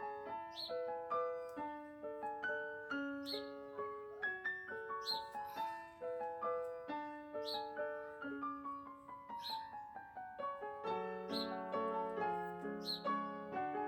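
Soft background piano music: a flowing pattern of single notes, several a second, each ringing and fading.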